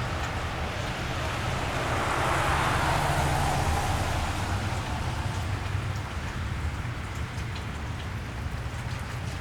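Steady rain falling on a wet street. About two seconds in, a passing car's tyres hiss on the wet pavement, swelling and fading away over a couple of seconds. A low, steady rumble runs underneath.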